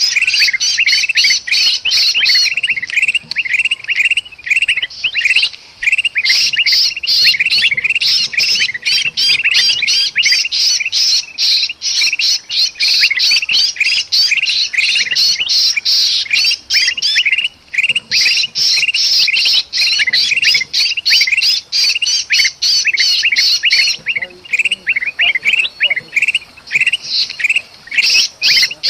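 Bulbuls (kutilang) calling noisily and without a break in dense, rapid, harsh chattering, mixed with the agitated distress calls of a trapped bulbul. This is a bird-luring (pikat) call recording meant to draw other birds in.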